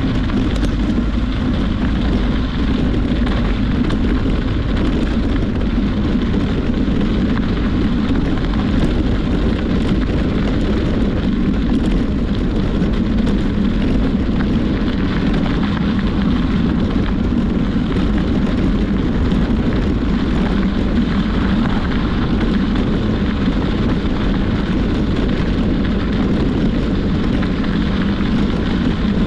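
Steady rush of wind on the microphone with rolling tyre noise from a moving bicycle.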